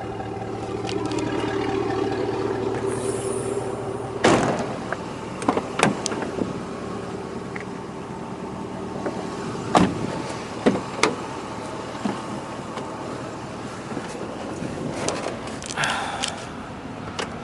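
2003 Hummer H2's 6.0-litre V8 idling through its Corsa exhaust, with a door knock about four seconds in and several sharp clicks and knocks after it.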